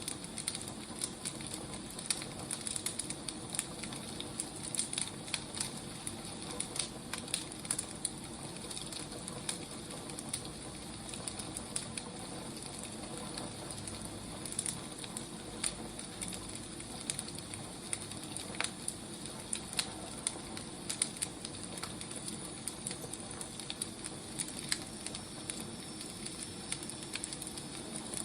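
Firewood burning, with a steady hiss and frequent irregular crackles and pops.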